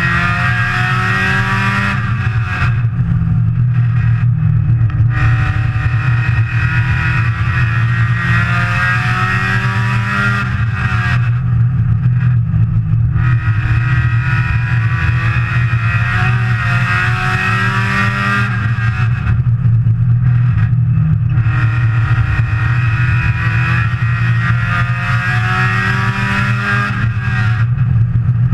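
Saturn S-Series race car's four-cylinder engine heard from inside the caged cockpit, pulling hard with revs climbing for several seconds and then falling off about every eight seconds, as the car comes off the throttle for each turn of a short oval lap.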